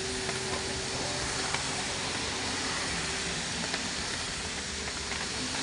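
Truck driving in rain: a steady hiss of rain and wet road noise over the running engine.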